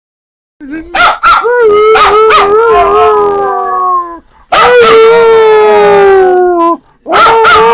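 Pet dog howling: long drawn-out howls, each sliding slowly down in pitch, with short breaths between them about four and seven seconds in.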